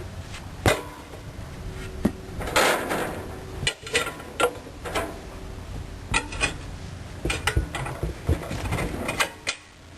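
Irregular mechanical knocks, clanks and clicks, a dozen or more scattered through, with a rasping stretch about two and a half seconds in.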